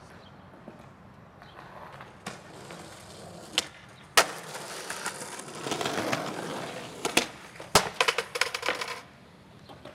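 Skateboard trick attempt: a sharp crack of the board, then urethane wheels rolling on concrete, then two hard impacts and a quick clatter of the board knocking on the ground near the end.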